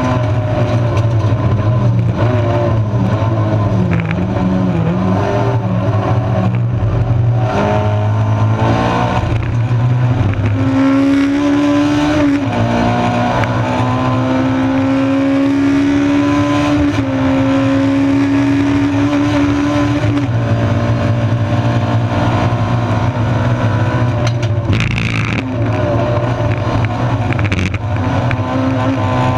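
Honda 1.6-litre four-cylinder race engine pulling hard, heard inside the stripped-out cabin, its pitch climbing and dropping with gear changes and lifts through corners. A short rasping burst comes near the end.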